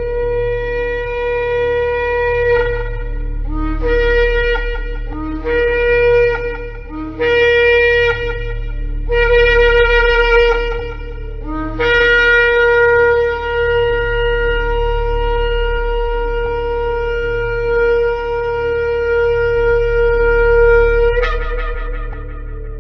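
Shofar (ram's horn) blasts: a long blast, then four shorter ones that each step up from a low note to the main note, then a long held blast of about nine seconds that ends with a sharp upward break.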